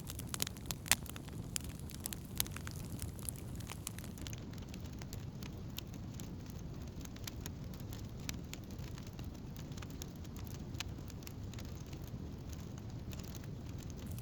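Wood campfire burning: scattered sharp crackles and pops over a steady low rumble, the pops coming more often in the first few seconds.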